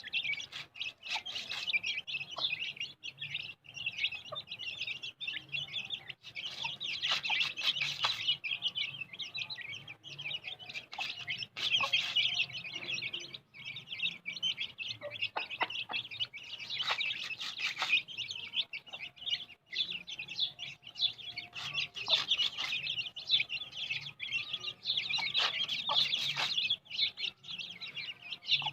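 A brood of Aseel chicks peeping nonstop in a dense, high chorus, with a hen clucking and many short clicks mixed in.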